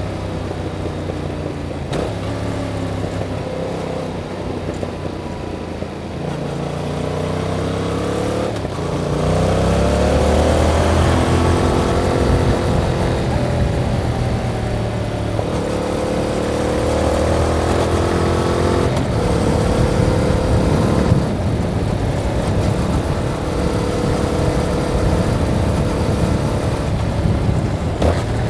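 Yamaha MT-07's 689 cc parallel-twin engine through its stock exhaust, riding under way. It pulls up in pitch twice in the first third, then runs at steadier, higher revs, with one brief drop in pitch about two thirds of the way through.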